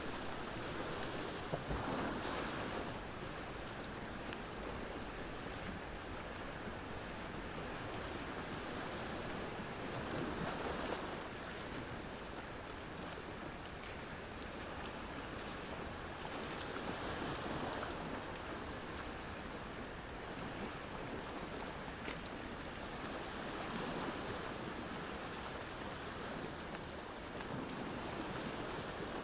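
Ocean waves washing in on the shore, swelling and easing every several seconds, with a few faint crackles from a wood bonfire.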